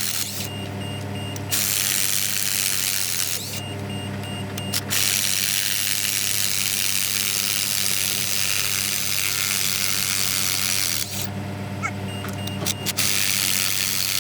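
Steady machine hum with a loud hiss over it that stops and restarts several times, typical of air or power tools at work alongside running machinery.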